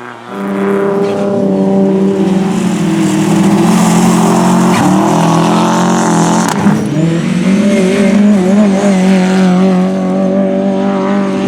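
Rally car engine held at high revs close by. It comes in suddenly, dips briefly about halfway, and there is a single sharp crack a little later.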